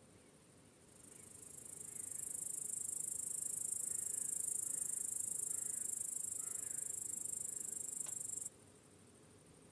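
High-pitched cricket chorus trilling, swelling in over about a second, holding steady, then cutting off abruptly near the end. Faint, lower chirps sound underneath in the middle.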